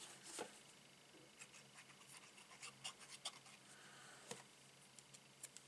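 Near silence with faint scattered small clicks and light paper rustles: paper die-cut leaves being handled and pressed onto a card.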